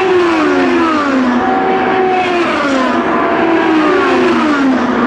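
IndyCar race cars going past one after another at speed, each engine's pitch dropping as it passes. There are about three passes.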